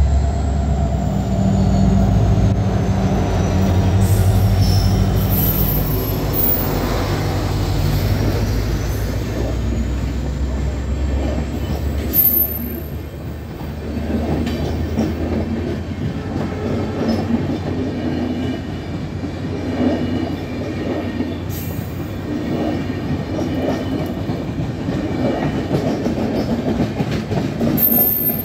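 Passenger express train passing close by. For the first dozen seconds there is a loud, low, steady drone from the head of the train. After that come the coaches, rolling past with a rhythmic clatter of wheels over rail joints and some wheel squeal, plus a few sharp clacks.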